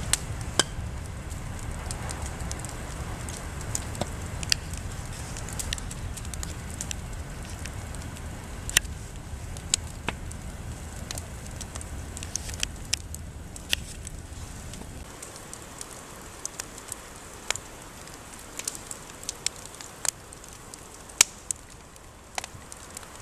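Wood campfire crackling, with sharp irregular pops scattered throughout. A low rumble under it drops away about fifteen seconds in.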